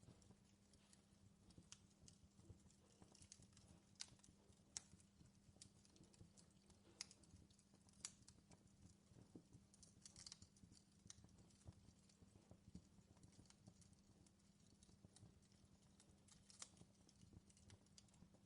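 Wood fire crackling in a fireplace: faint, irregular snaps and pops over a low steady background.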